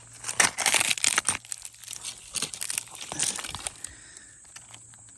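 Gravel and loose rocks crunching and shifting in a creek bed, in two bursts of crunching a couple of seconds apart.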